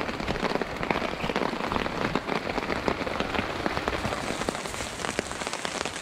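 Steady rain pattering on a tarp overhead, a dense spatter of close drops and sharp taps.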